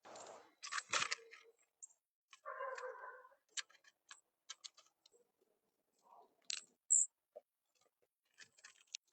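Scattered light clicks, taps and short rustles of bird food being handled and set out, with one brief high squeak about seven seconds in.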